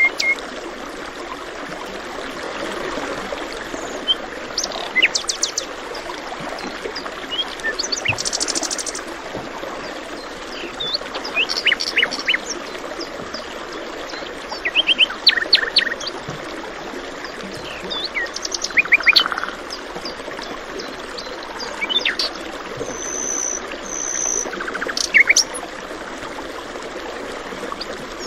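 A stream running steadily, with small songbirds chirping over it in short quick series every few seconds and one bird giving a brief high whistle near the end.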